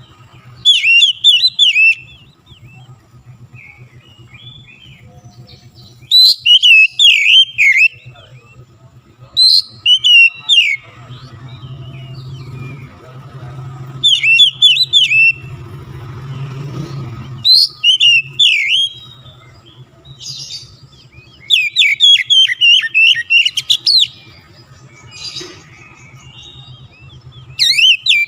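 Oriental magpie-robin (kacer) in full, vigorous song: loud bursts of fast, chattering, jumpy high notes, each a second or two long, repeated every few seconds. A steady low hum runs underneath.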